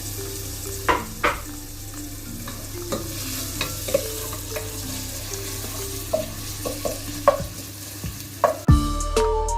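Onions frying in hot oil, sizzling steadily while a spoon stirs them, knocking and scraping against the pot several times. Plucked-guitar background music comes in loudly near the end.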